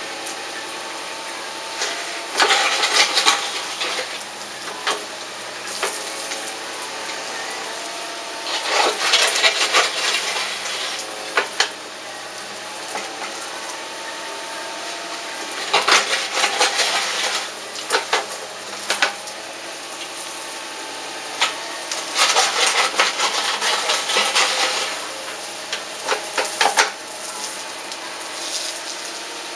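Bursts of rough scraping with sharp knocks, a few seconds each and repeated four or five times, as stones and earth are worked by hand to build a stone fire pit.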